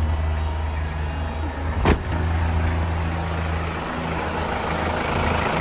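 Toyota Grand HiAce engine idling steadily with its air-conditioner belt turning over a freshly replaced tensioner pulley bearing, the bearing's squeal gone. A single sharp click about two seconds in.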